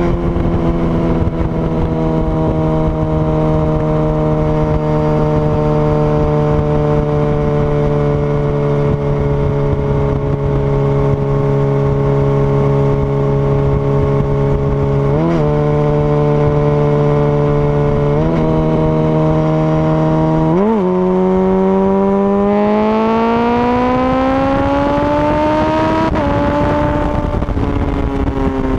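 Honda CBR1000RR Fireblade inline-four engine, heard onboard over wind rush. It cruises on a steady note for a while, gives three brief blips, then pulls hard with a rising note from about two-thirds in. A quick upshift about 26 s in briefly breaks the rise before the note eases off near the end.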